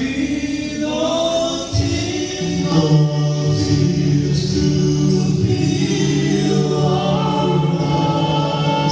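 Gospel vocal quartet singing in harmony, holding long sustained chords.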